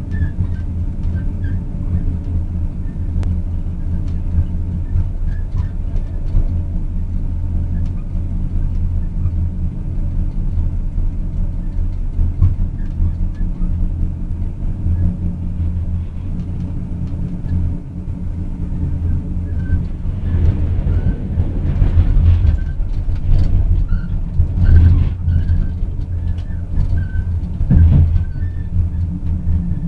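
Train running along the track, heard aboard the train: a steady low rumble that grows louder and rougher about two-thirds of the way through.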